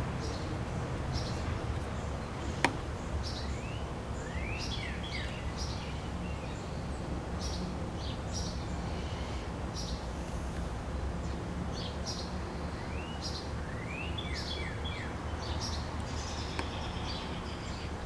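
Small birds chirping again and again over a steady low background rumble, with two quick runs of rising chirps, about four seconds in and again near thirteen seconds. A single sharp tap sounds a few seconds in.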